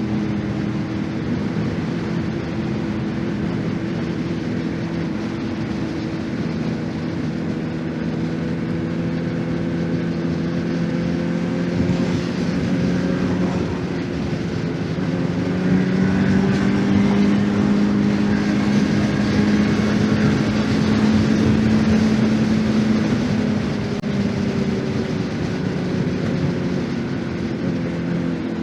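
2024 Honda CBR600RR's inline-four engine running under way at fairly steady revs. About halfway through, the revs climb and it gets louder, then it eases back a few seconds before the end.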